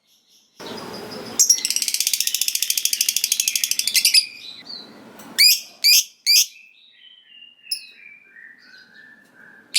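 Lovebird giving a long, fast, high chattering trill (the 'ngekek panjang' prized in contest birds) lasting about three seconds. Three sharp chirps and a falling series of notes follow. A short noise comes just before the trill.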